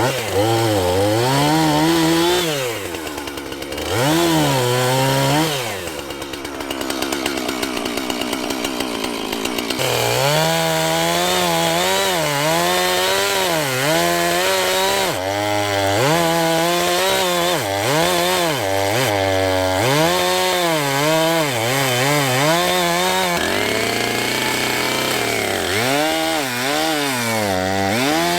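Two-stroke chainsaw running, its revs rising and falling every second or two, with a couple of steadier stretches at lower revs.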